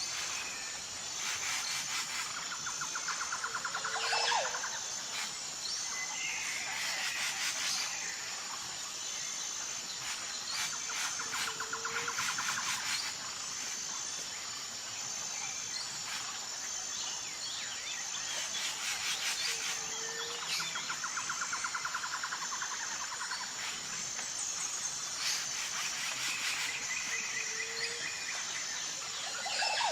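Outdoor nature ambience: a steady high-pitched insect trill with bird calls, chirps and buzzy trills over it. The same pattern of calls comes back about every eight seconds, like a looped ambience track.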